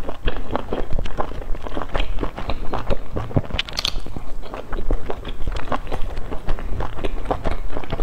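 Close-miked chewing and biting of soft pan-fried buns: a steady run of short mouth clicks a few times a second, with a bite into a bun about halfway through.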